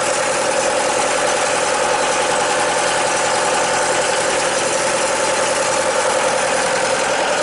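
Bobcat 873 skid steer's diesel engine idling steadily, warming up after a cold start in freezing weather.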